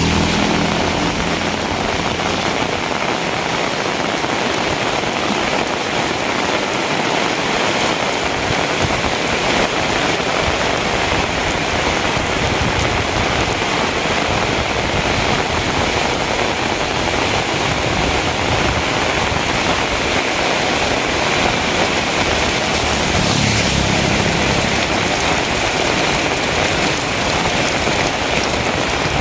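Heavy rain falling steadily, an even hiss throughout. Near the end, a vehicle engine passes briefly with a low hum.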